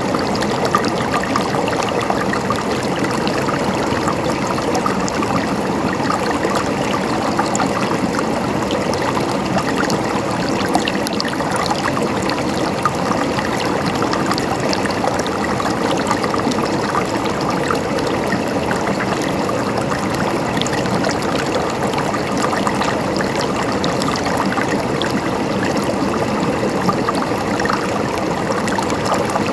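Flowing water babbling steadily, with many small splashes and trickles over an even rush.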